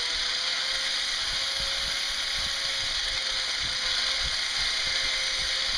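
Roller chains and sprockets of a home-built solar bulldozer's crossed-chain drive running under motor power, one side turning backwards and the other forwards. The sound is a steady mechanical rattle with a faint hum, and it stops abruptly near the end.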